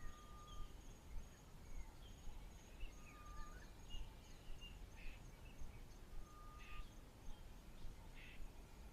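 Faint bird calls: a short plain whistled note repeated about every three seconds, with scattered short chirps from other birds and a thin steady high insect whine.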